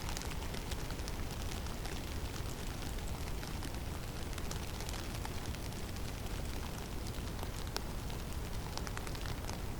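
Snowstorm ambience in a conifer forest: a steady low rumble of blizzard wind with a dense, irregular patter of small ticks from snow and ice falling on the ground and branches.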